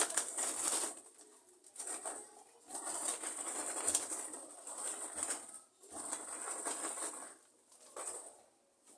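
Rustling and scraping in irregular bursts of about a second each, as potting soil and plant material are handled during repotting.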